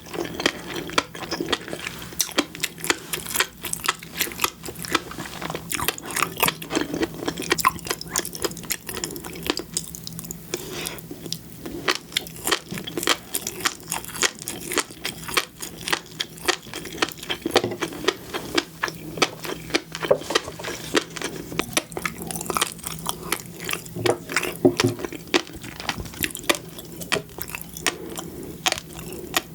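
Close-miked eating sounds: a person chewing and biting food, with many rapid, crisp clicks and crunches throughout.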